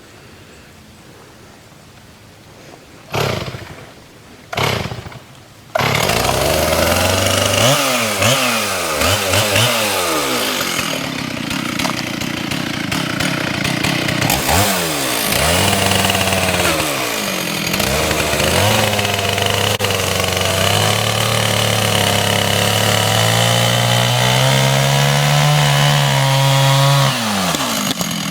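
Two-stroke chainsaw started with two short pulls, catching about six seconds in, then cutting straight into the trunk of a dead hemlock in a bore cut. The engine speed dips and recovers as the bar bites, then climbs steadily before easing off near the end.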